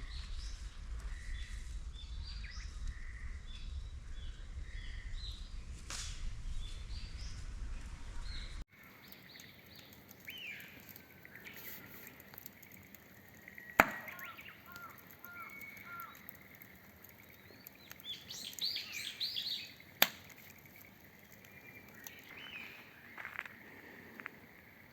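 Small wild birds chirping and calling, many short high notes overlapping. A low rumble under the first third cuts off abruptly, and two sharp clicks stand out in the second half.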